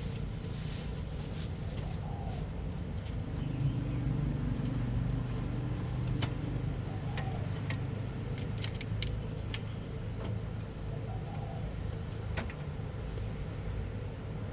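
A steady low mechanical drone with scattered light metallic clicks, and a short faint chirp about every four and a half seconds.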